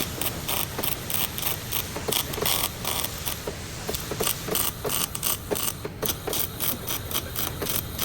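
Rapid, irregular mechanical clicking and light scraping from hand-tool work, several clicks a second.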